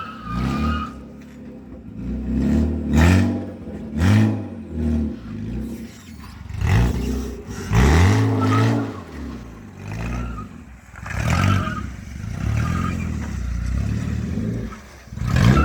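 BMW E36 car engine revved in short bursts over and over, each rev climbing and dropping back within about a second, with a steadier stretch near the end.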